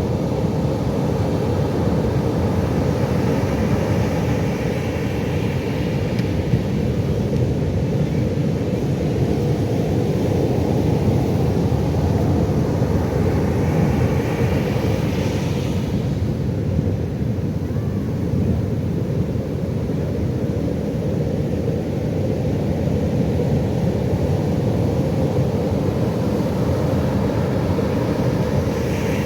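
Pacific Ocean surf: a steady, deep rumble of breaking waves. Near the middle, the hiss of a wave washing up swells and then stops abruptly.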